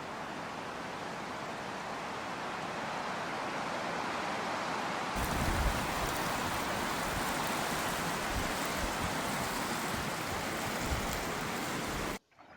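Wind and lapping water on a loch: a steady rushing that slowly grows louder, with wind rumbling on the microphone from about five seconds in. It cuts off suddenly just before the end.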